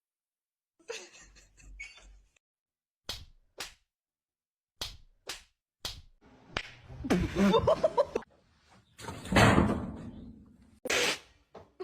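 A series of sharp slap-like smacks, several short cracks in quick succession, followed by longer, noisier sounds.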